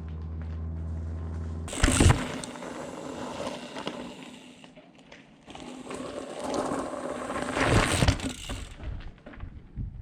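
Mountain bike riding a rough trail: tyres rattling over the ground with the freehub ratchet clicking, and heavy jolts about two seconds in and again near eight seconds.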